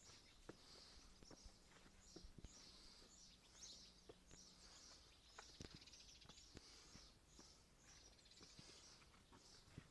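Faint outdoor ambience of small birds chirping over and over, with a few light clicks and knocks scattered through it.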